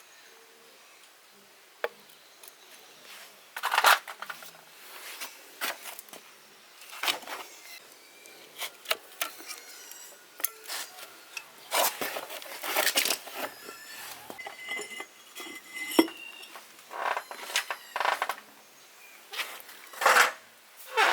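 Irregular clinks, knocks and scrapes of metal parts and hand tools being handled during a machine repair.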